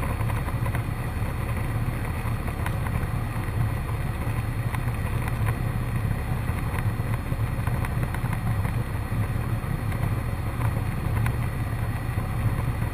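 Cessna 152's four-cylinder Lycoming engine and propeller droning steadily in flight, heard inside the cabin.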